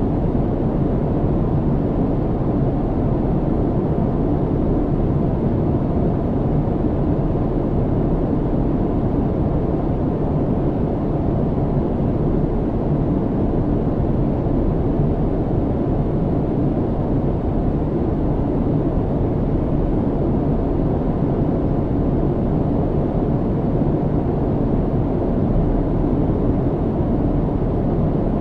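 Airliner cabin noise in flight: a steady, low, even rush of engine and airflow noise with no changes.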